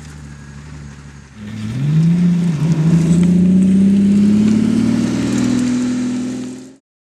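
Pagani Huayra's twin-turbo 6.0-litre V12 accelerating hard after a quieter start. About a second and a half in, the engine note rises, dips briefly, then climbs steadily in pitch until the sound cuts off suddenly near the end.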